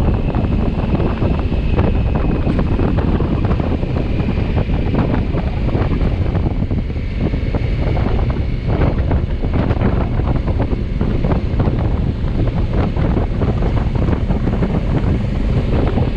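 Heavy wind buffeting on the microphone of a motorcycle at riding speed, a steady dense rush with a faint high whine running underneath.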